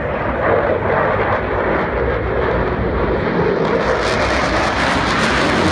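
Belgian F-16 fighter jet's single Pratt & Whitney F100 turbofan engine roaring in a loud, steady rush during a display pass, with a hissing edge that grows from about four seconds in as the jet comes closer.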